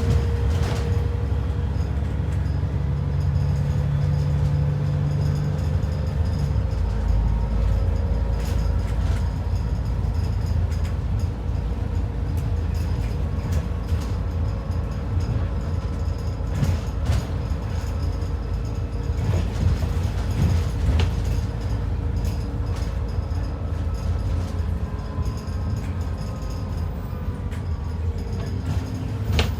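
ADL Enviro 400 double-decker bus on the move, heard from inside: steady diesel engine and road rumble with a whine that drifts slightly in pitch, and occasional clicks and knocks.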